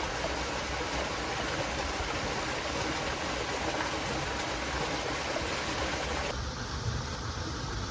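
Stream water rushing steadily. About six seconds in the sound cuts abruptly to a duller background with a low rumble.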